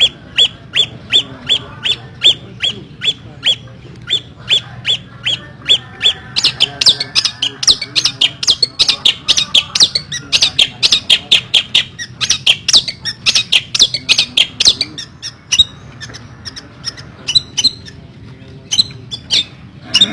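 Long-tailed shrike calling: a long series of short, harsh, sharp notes, evenly spaced at first, then a faster, denser chattering run, then a few scattered notes near the end.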